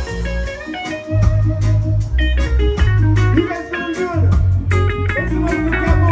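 Live band playing an instrumental break: a lead electric guitar line with bent notes over bass guitar and drums.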